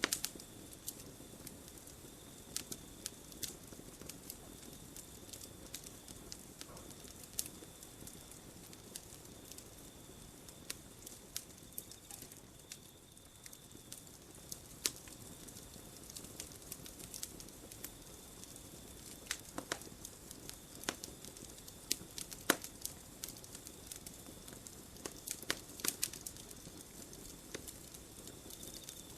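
Campfire burning and crackling, with irregular sharp pops and snaps over a soft steady hiss of flames. There are a few louder pops around the middle and near the end.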